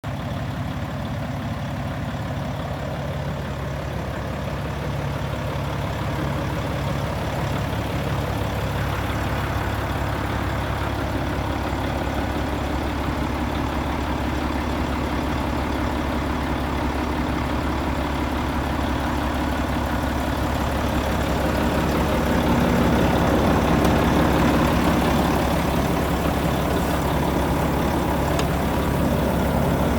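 Volvo FM 13.400 truck's 13-litre six-cylinder diesel engine idling steadily, growing somewhat louder from about 22 to 25 seconds in.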